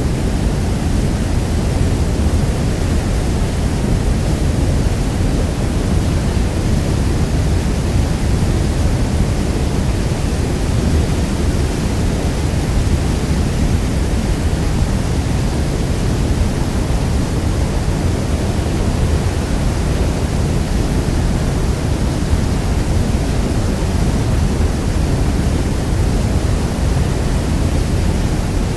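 Niagara Falls: the steady, deep rush of a huge waterfall, a dense low rumble of falling water with a fainter hiss above it, unchanging throughout.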